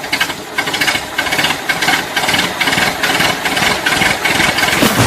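A small motor running with a dense, rapid rattle of clicks.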